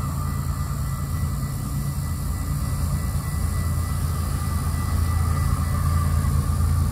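Diesel freight locomotives approaching from a distance: a steady low rumble that slowly grows louder.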